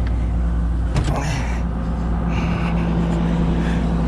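Kobelco SK250 LC excavator's diesel engine idling steadily, with a single short knock about a second in.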